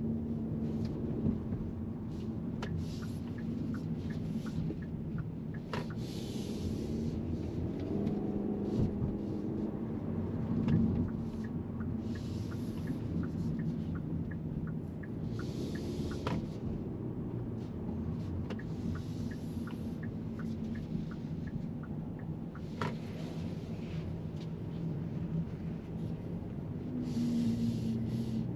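2023 Hyundai Elantra's 2.0-litre four-cylinder engine running at low parking-lot speed, heard inside the cabin as a steady low hum over tyre and road noise. Faint ticks and patches of hiss come and go. The engine note swells a little near the end.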